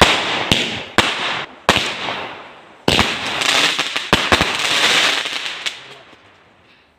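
Fireworks going off: about eight sharp bangs, each followed by a fizzing crackle that fades, dying away near the end.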